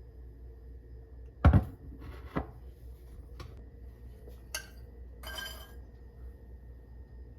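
Kitchen dishes and utensils being handled and set down: a loud knock about a second and a half in, a second knock a beat later, then lighter clicks, one with a short ringing clink, and a brief clatter past the middle.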